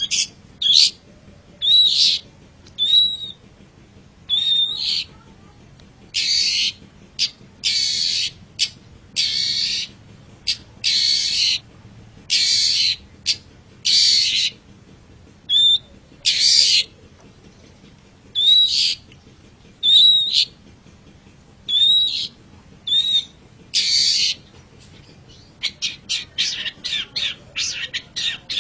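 Long-tailed shrike (cendet) calling: a string of harsh, scratchy calls about one a second, some carrying a short whistled note, breaking into a fast chatter about three seconds before the end.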